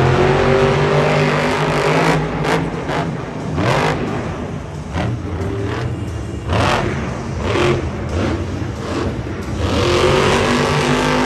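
Monster truck engine revving hard, with repeated throttle surges rising and falling in pitch and a long loud surge near the end.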